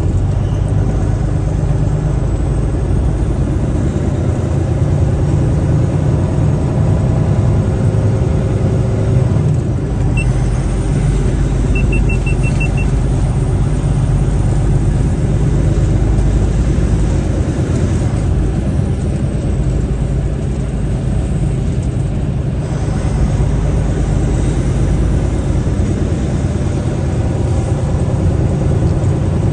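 Truck engine and road noise heard from inside the cab while driving: a steady low rumble with engine tones that drift slowly up and down. About twelve seconds in, a quick run of faint high beeps sounds.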